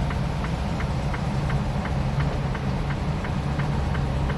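Tractor-trailer cab interior on the move: a steady low engine and road rumble, with a light, regular ticking about three times a second.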